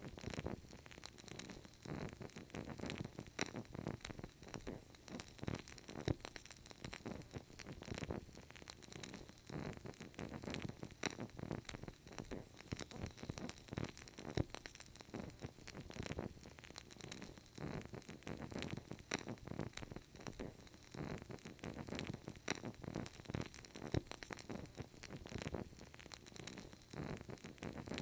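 Burning candle crackling faintly, with many small irregular pops over a steady soft hiss.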